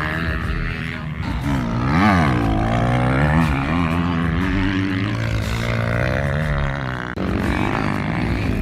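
Two-stroke motocross bike engine revving hard, its pitch climbing to a peak about two seconds in and then falling away, rising and dropping again as the throttle comes on and off. The sound changes abruptly about seven seconds in.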